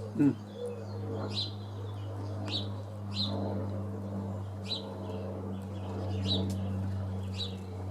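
A small bird chirping repeatedly, one short high chirp about every second, over a steady low hum.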